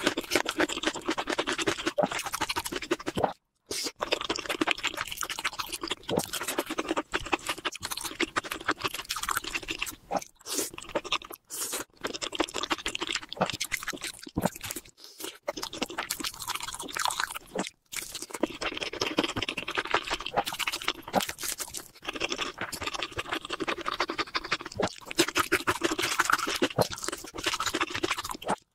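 Close-miked ASMR eating: steady chewing and crunching of sauce-glazed chicken. The sound is broken by a few brief silent gaps where it cuts off.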